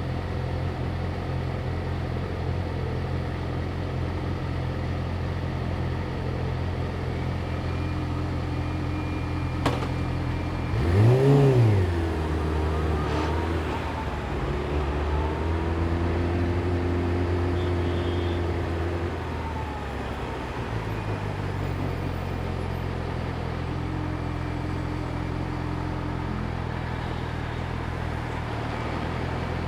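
Yamaha YZF-R6 inline-four engine ticking over steadily, with one quick throttle blip about eleven seconds in that rises and falls sharply in pitch, then running steadily again.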